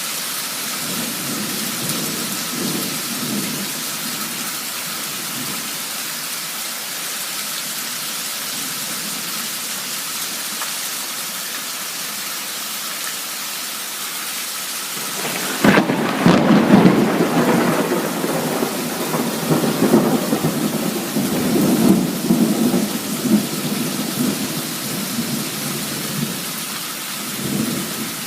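Heavy downpour of rain hissing steadily, with a sharp crack of thunder a little past halfway followed by several seconds of rolling rumble, and a weaker rumble near the end.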